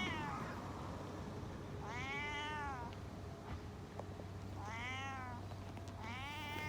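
Domestic cat meowing three times, each meow about a second long, rising and then falling in pitch.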